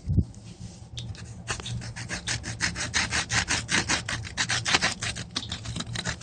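Pen scribbling on a furnace filter in quick, scratchy back-and-forth strokes, after a low thump right at the start.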